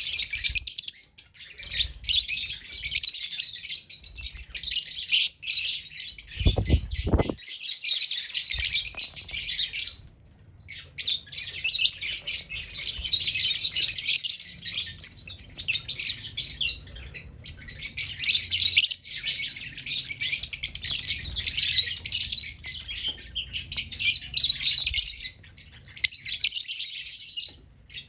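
Pet lovebirds chirping and chattering in a rapid, high-pitched stream that breaks off briefly about ten seconds in. A short low thud comes about six and a half seconds in.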